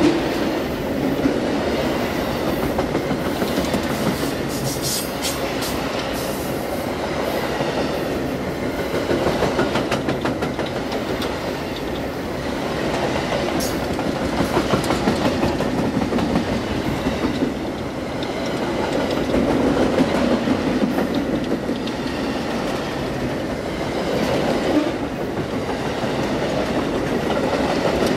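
Amtrak Auto Train autorack car carriers rolling past close by: a steady rumble of steel wheels on rail with clickety-clack over the rail joints, rising and falling in waves as the cars go by.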